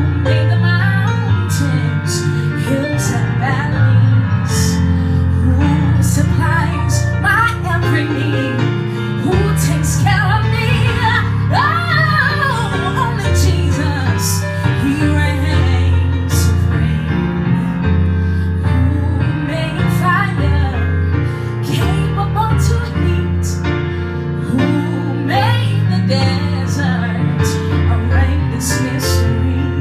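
Live gospel music: a woman singing gliding, wordless vocal runs over a band with a steady low bass line and percussion hits.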